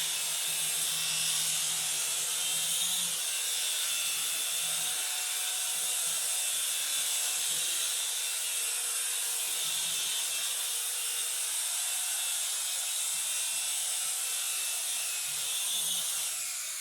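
Small two-channel toy RC helicopter in flight, its tiny electric rotor motors giving a steady high-pitched whirring buzz.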